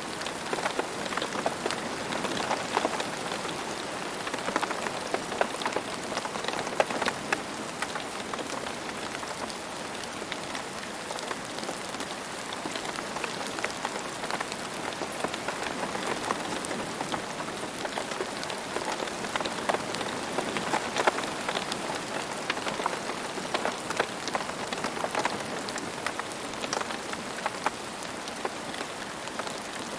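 Steady rain falling, with many individual raindrops ticking on a hard surface.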